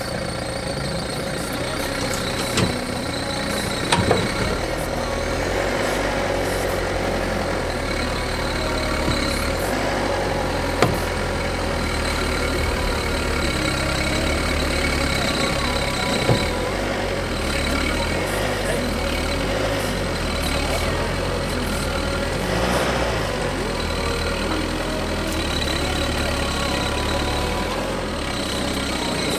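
Car engine running steadily near idle, with a few sharp knocks and clanks along the way.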